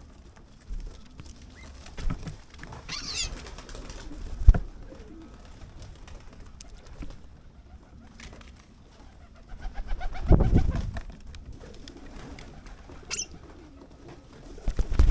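Birds at a garden feeder: a starling's whistled call sweeping up and down, a sharp tap, and a louder burst of low cooing about two-thirds of the way through, with a short high call near the end.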